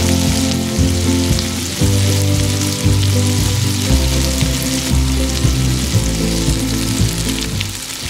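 Shrimp and sausage skewers sizzling over a charcoal grill, a steady hiss, under background music with a bass line that moves in steps.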